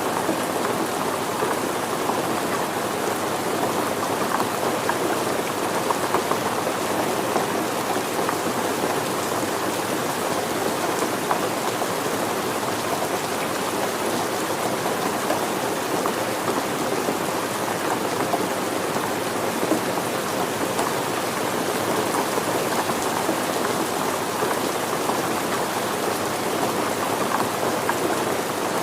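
Steady rain falling on surfaces, a dense, even patter of many drops with no change in strength.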